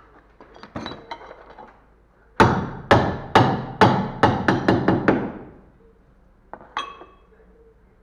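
Hammer blows on metal: a few light knocks, then a run of about nine hard strikes at roughly three a second, and two more knocks near the end, some ringing briefly.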